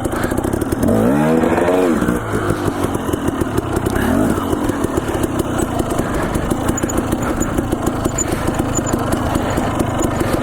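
Dirt bike engine running under the rider with fast pulsing. It revs up and back down about a second in, revs briefly again near four seconds, then runs steadily.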